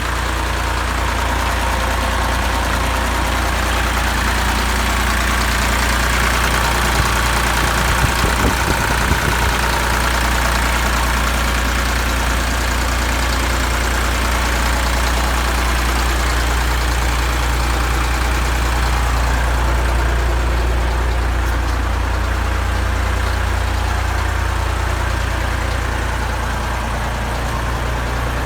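Fordson Major tractor engine running steadily, with a short cluster of sharp knocks about eight seconds in.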